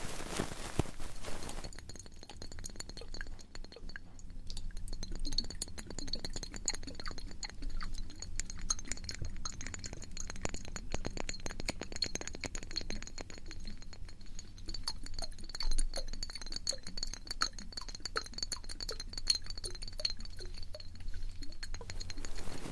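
ASMR ear-cleaning sounds close on the microphone: dense, irregular small clicks, crackles and scratches of tools working at the ear. A faint steady high tone runs under them from about two seconds in until near the end.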